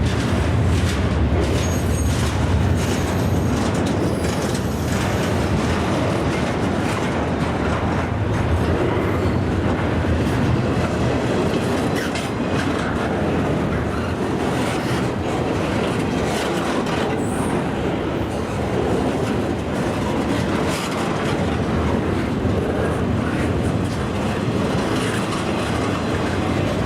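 CSX freight train rolling past, its wheels clicking over the rail joints in a steady rumble, with a few faint high wheel squeals in the first few seconds.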